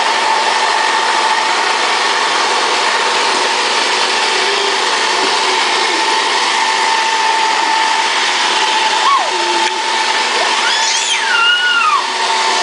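Roomba robot vacuum running, a steady whirring noise with a constant high whine. About nine seconds in, a few high squeals that glide up and down cut through it.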